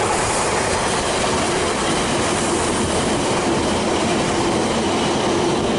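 Train running along the line: a steady rumble of wheels on rail, with a faint held tone in the second half.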